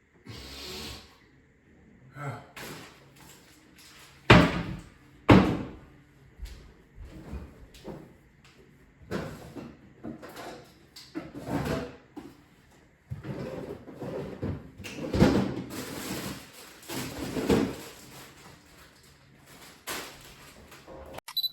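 A series of household knocks and clatters, like doors, drawers or cupboards being opened and shut. Two sharp bangs stand out about four and five seconds in, and a busier run of handling noises follows later.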